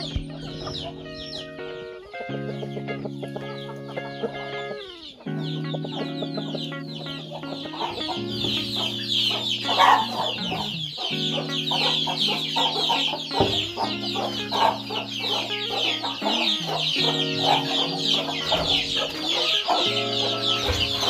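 Chickens in a coop calling, a dense chorus of high peeping calls with some clucking that grows busier about eight seconds in, over background music of slow held chords.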